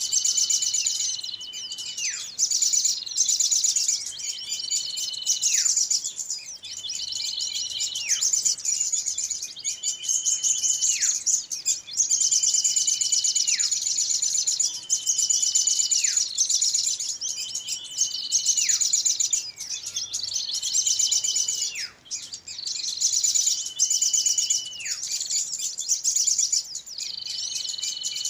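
Bird-luring recording of small songbirds chattering rapidly and shrilly, over which a call repeats about every two and a half seconds: a held high whistle that slides sharply downward.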